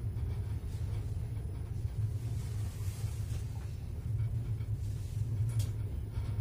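Steady low rumble of a passenger train coach rolling along the track, heard from inside the coach, with a faint click or two from the wheels or the coach.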